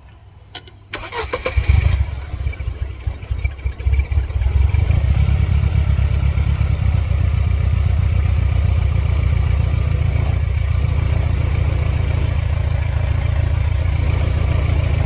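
A few clicks, then the 1999 Mercedes-Benz C230 Kompressor's supercharged four-cylinder engine cranks and catches about a second in, stumbling unevenly for a few seconds before settling into a steady idle. It is running with the mass airflow sensor unplugged, and the idle is shaky.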